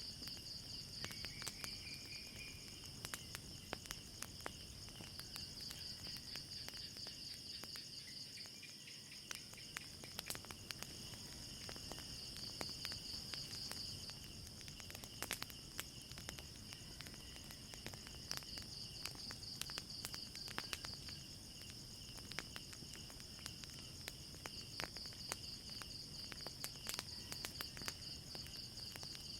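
Crickets chirping in a steady, pulsing high trill, with a second insect band a little lower, over frequent sharp crackles and pops from a wood fire.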